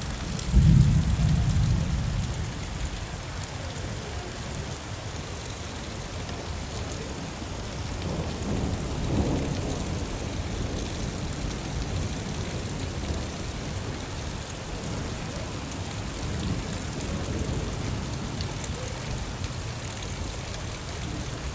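Steady rainfall with thunder: a loud, sudden clap about half a second in that rumbles away over a couple of seconds, then a softer roll of thunder around nine seconds in.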